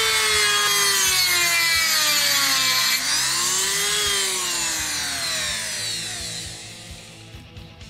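A small electric power tool working on the crimped metal sealing ring of a motorcycle horn; its whine sags and rises twice as it bites and eases off, then winds down and fades about six seconds in.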